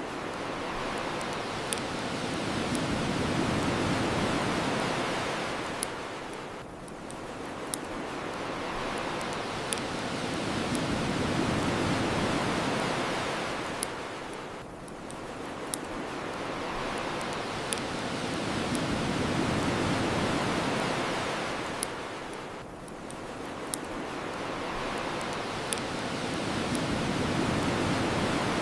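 Ocean surf washing in and out in long swells about every eight seconds, with scattered sharp crackles and pops from a wood fire.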